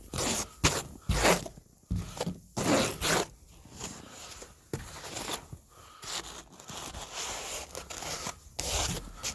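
Irregular rubbing and scraping noises in short bursts, like footsteps and clothing or handling noise, louder in the first few seconds.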